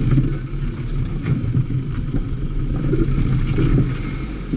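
Toyota Corolla's engine running steadily as the car drives slowly onto a cone course.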